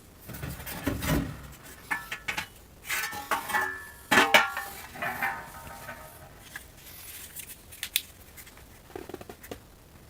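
Irregular clattering and knocking of hard objects being handled, some strikes with a brief metallic ring; the loudest knock comes about four seconds in, and a few light taps follow near the end.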